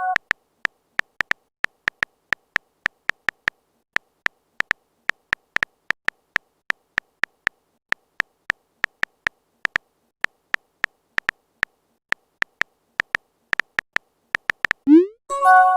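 Phone-keyboard typing clicks, tapping a few times a second with small pauses. Near the end comes a quick rising whoosh and a short chime, the sound of a chat message being sent.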